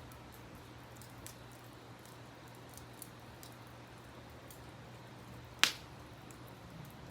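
Campfire crackling: scattered small pops of burning wood and one sharp, loud pop about five and a half seconds in, over a steady faint rush of background noise.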